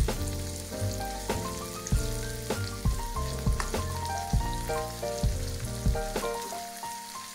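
Bitter gourd slices sizzling in hot oil in a non-stick pan on low flame, moved about with a spoon partway through, under background music with a steady beat.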